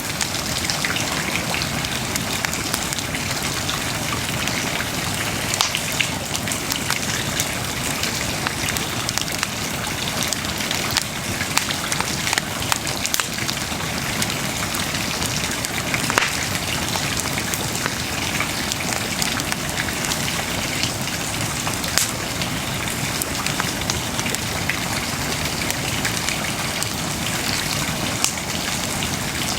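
Wood bonfire burning: a steady hiss dotted with many sharp crackles and pops, a few of them louder snaps.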